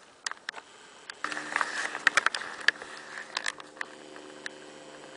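Woodpecker tapping and flaking bark in irregular sharp taps, densest in the middle, from a three-toed woodpecker foraging on a tree. A steady low hum sets in about a second in.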